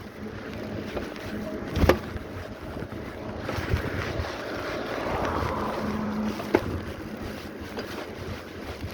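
Rumbling wind noise buffeting the microphone, with a faint low hum that comes and goes. A loud sharp knock comes about two seconds in and a smaller one near seven seconds.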